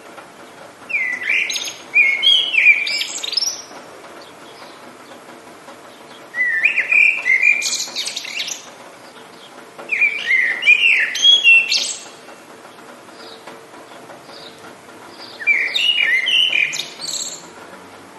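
A songbird singing four phrases of quick, sweeping chirps, each about two seconds long, with pauses of a few seconds between them, over a faint steady background hiss.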